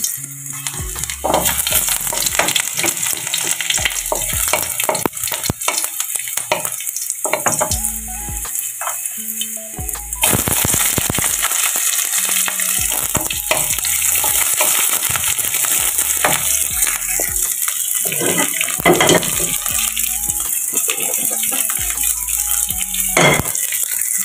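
Chopped garlic and red onion sautéing in oil in a steel wok: a steady sizzle, louder from about ten seconds in, with a wooden spatula stirring and scraping against the pan.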